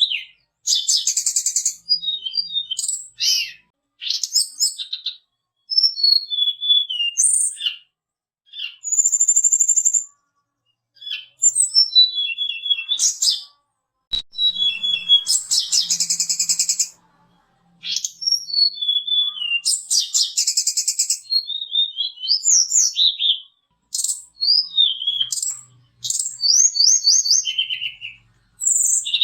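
A tledekan gunung (sulingan) songbird singing: a string of phrases a second or two long, mixing clear falling whistled notes with fast buzzy trills, separated by short pauses.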